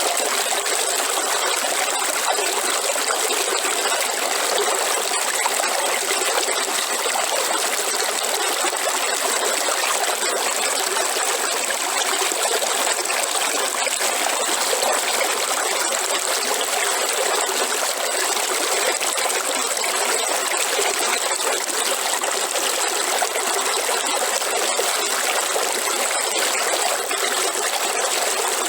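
Waterfall: a steady, unbroken rush of falling water, with an even high hiss over it and no changes.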